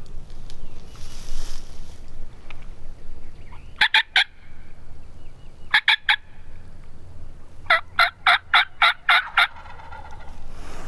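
Turkey yelps, sharp and loud: a run of three, another three, then a longer series of about eight at roughly four a second. A fainter turkey call trails right after the last series.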